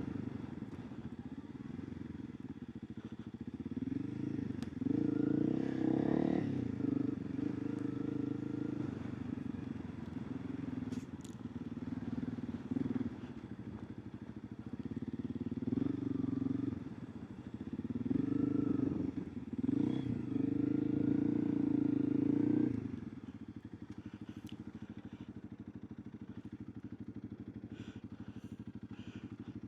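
Honda CRF300 Rally's single-cylinder engine running under changing throttle, rising in pitch and loudness several times as it accelerates and easing off between, then running quieter and steady over the last several seconds.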